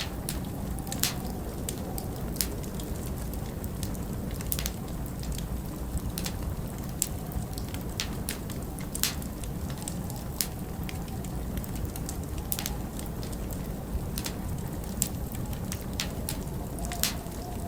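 Wood fire in a fireplace crackling, with sharp irregular pops about once a second. Under it runs a steady low rush of blizzard wind.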